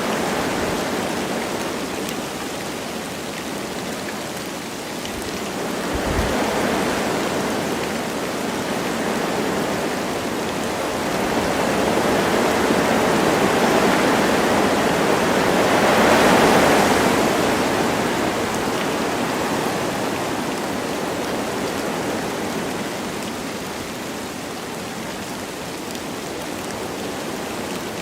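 Wind blowing through forest trees with light rain falling, a steady rushing hiss that swells and eases in slow gusts, strongest about halfway through.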